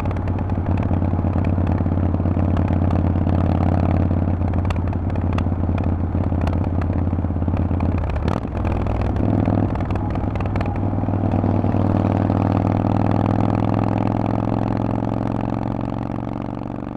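Harley-Davidson Forty-Eight's air-cooled V-twin running through a loud Vance & Hines exhaust at a steady engine speed, with a brief change in pitch about eight seconds in. The sound starts to fade near the end.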